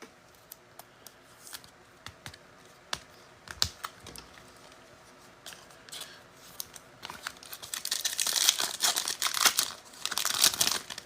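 Trading cards being handled: faint scattered clicks and taps, then about seven seconds in a louder run of crinkling and tearing as a card pack wrapper is ripped open.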